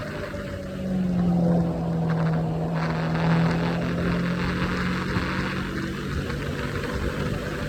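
Triumph Scrambler 400X's single-cylinder engine running under way at highway speed. Its note drops in pitch about a second in while getting louder, then holds steady under a rushing wind noise that builds from about three seconds in.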